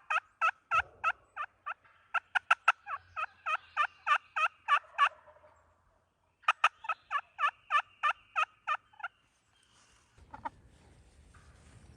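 Turkey yelping: three runs of evenly spaced yelps, about four a second, with short pauses between runs. Faint rustling near the end.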